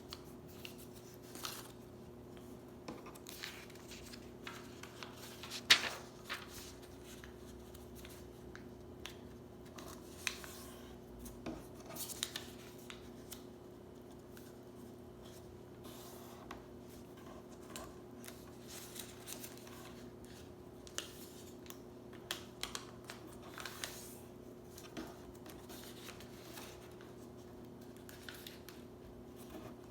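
A sheet of paper being folded and creased by hand: scattered rustles, rubs and taps, with one sharper snap about six seconds in, over a faint steady hum.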